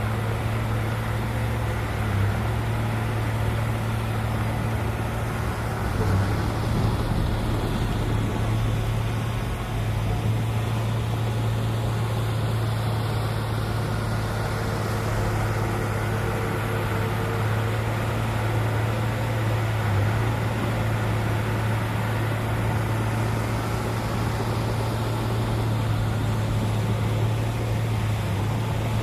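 Heavy diesel engine of earthmoving machinery running steadily at a constant low hum.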